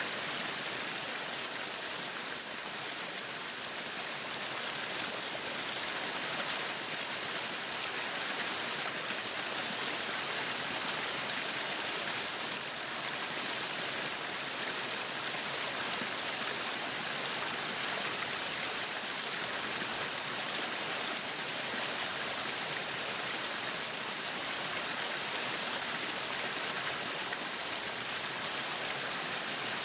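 Meat sizzling on a yakiniku grill: a steady, even sizzle.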